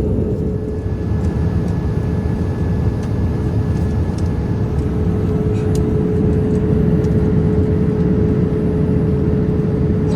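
Steady running noise of a vehicle heard from inside, with a constant hum tone over it.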